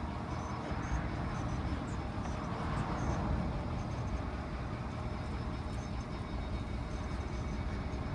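2016 Ford F350's 6.7 L Power Stroke diesel V8 running steadily at low speed as the truck reverses slowly.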